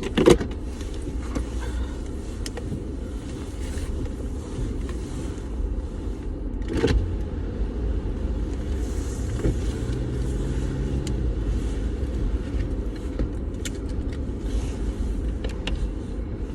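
Steady low rumble of a car heard from inside the cabin, with a sharp knock near the start and another about seven seconds in.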